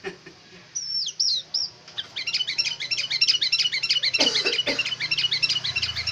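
Sooty-headed bulbul (kutilang) singing a leafbird-style (cucak ijo) song: a few high falling whistles about a second in, then from about two seconds a fast, unbroken run of sharp chirping notes.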